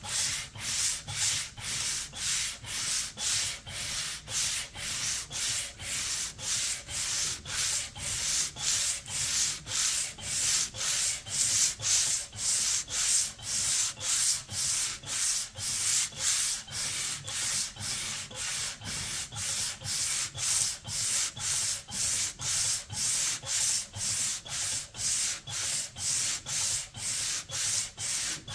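Hand sanding with sandpaper in steady back-and-forth strokes, about two a second, rasping away old paint and finish.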